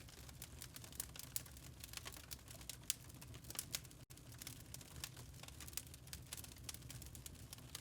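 Wood fire crackling in a fireplace: irregular small snaps and pops over a low steady rumble, with a split-second gap about four seconds in.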